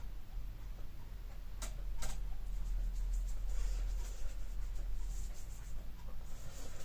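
Paintbrush strokes scratching softly over a painted surface, with two sharp clicks about a second and a half and two seconds in, over a steady low hum.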